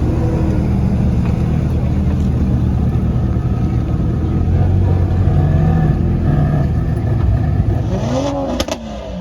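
A car engine running steadily, then revved up and down a couple of times near the end.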